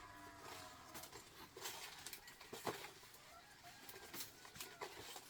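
Faint scattered clicks and knocks, with a faint pitched call in the first second.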